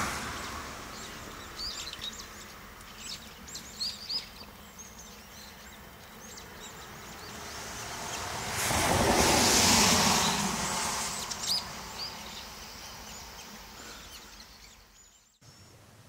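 Small wild birds giving short, high chirps on and off over outdoor ambience. About halfway through, a rush of noise swells and fades. The sound cuts off abruptly near the end.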